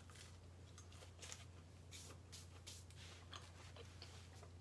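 Faint chewing of a bite of grilled cheese sandwich, with a string of soft, irregular crunches from the toasted bread.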